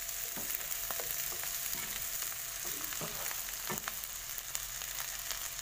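Shrimp, garlic and chillies sizzling in oil in a nonstick frying pan as a wooden spatula stirs them, with scattered scrapes and taps of the spatula against the pan.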